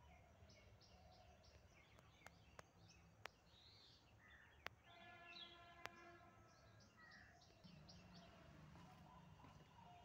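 Faint outdoor background with small birds chirping in short, quickly repeated high notes, twice. A few sharp clicks fall in the middle, and a brief pitched tone sounds about five seconds in.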